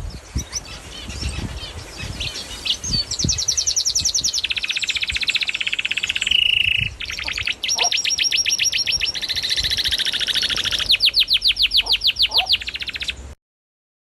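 Canary singing a long song of rapid trills, the phrases changing in pitch and speed one after another. The song cuts off suddenly near the end.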